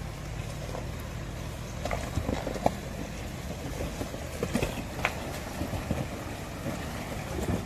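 Vehicle engine idling steadily, with scattered clicks and knocks over it.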